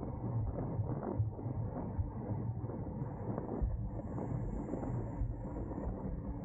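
Wind buffeting the microphone with road rumble from a road bicycle riding at race speed, a steady low noise with frequent small knocks.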